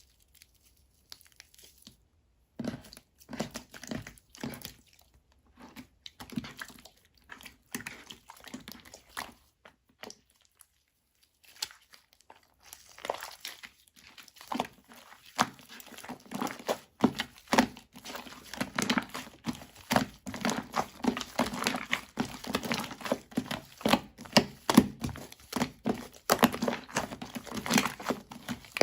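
Shaving-foam slime being pressed and squished by hand, giving dense crackling and popping. It comes in scattered bursts with a near-silent gap in the first half, then runs almost without pause from about halfway.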